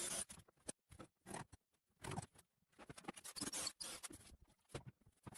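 Construction adhesive being laid along a brick base: irregular short scraping and squeezing hisses with a few sharp clicks.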